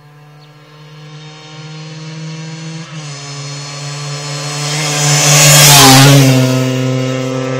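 Kawasaki KMX 125's two-stroke single-cylinder engine running on its original exhaust pipe. It grows steadily louder, is loudest with a burst of hissy exhaust noise about six seconds in, then settles a little lower and holds steady.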